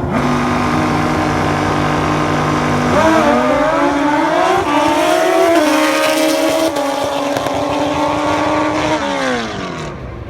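Racing motorcycle engines running at high revs. The pitch steps up and wavers about three seconds in, holds, then slides down and fades near the end as a bike passes or eases off.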